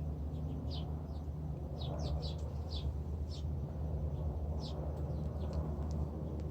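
Wrens giving short, high, downward-sliding chirps at irregular intervals, some in quick clusters, over a steady low rumble.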